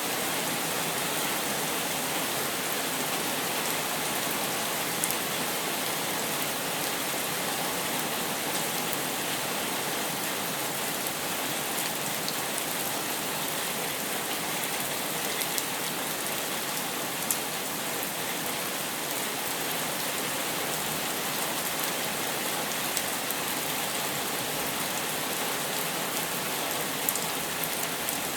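Steady rain falling, a dense even hiss with a few sharper drop ticks now and then.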